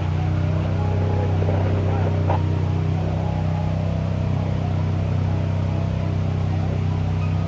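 A car engine idling with a steady low drone, with faint voices.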